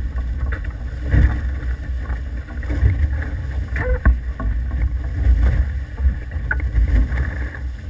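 Wind buffeting the microphone aboard an F18 sailing catamaran, a gusting low rumble, with a few sharp knocks from the boat.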